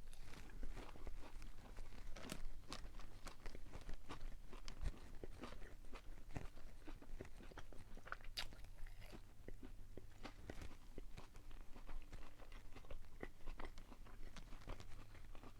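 Close-up chewing of a crispy fried chicken sandwich: irregular crunches and wet chewing clicks throughout, over a low steady hum.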